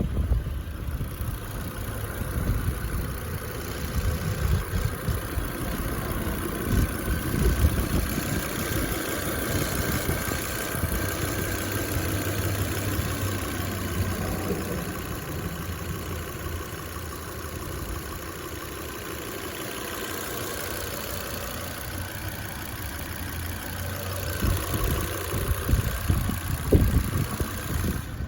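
2013 Volvo S60 T5's turbocharged five-cylinder engine idling steadily, with a thin steady whine above the low running sound.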